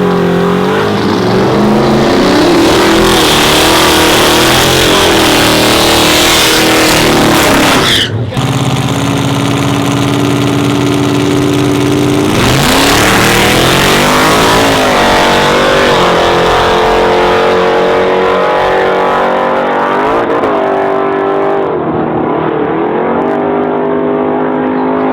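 Race truck engines running hard at a drag strip: revs held, then sweeping up and dropping several times. Broken by a sudden brief dip about eight seconds in.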